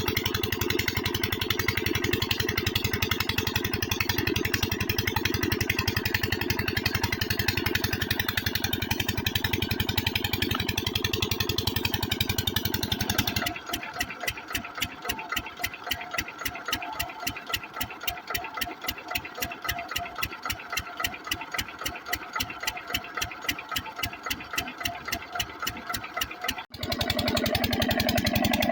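Kranti single-cylinder diesel water pump engine running steadily with a fast, even thumping beat. About halfway through, the sound suddenly turns thinner as its deep part drops away. After a brief break near the end it comes back full.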